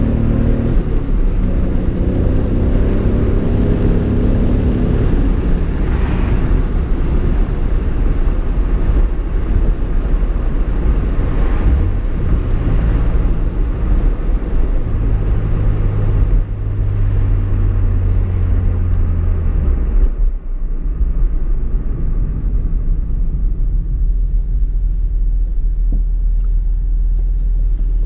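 Toyota Supra's inline-six engine and road noise heard from inside the cabin while driving. The engine note falls over the first few seconds, holds steady, then drops to a lower, duller drone about twenty seconds in as the car slows.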